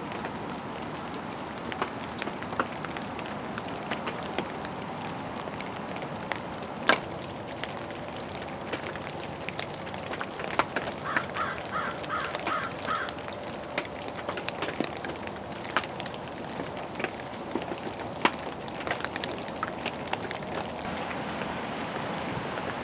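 Steady rain, with sharp drips and drops hitting close by throughout. About halfway through, a bird calls about six times in quick succession.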